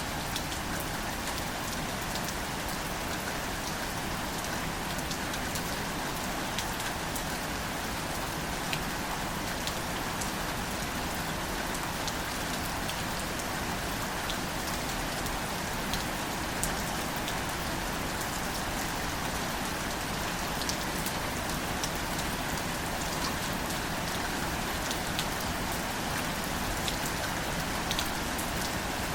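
Steady gentle rain falling on plants, an even patter with scattered sharper drop ticks.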